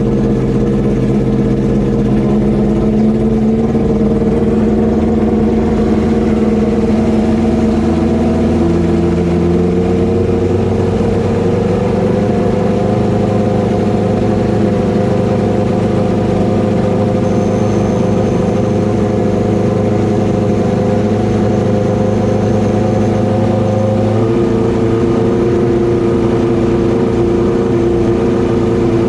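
Kawasaki ZX-12R drag bike's inline-four engine idling steadily, its idle speed shifting up or down a few times, about three seconds in, around nine seconds in and again near the end.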